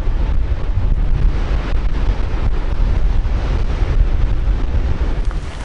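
Wind buffeting the microphone: a loud, steady low rumble with a rushing hiss over it, which cuts off at the end.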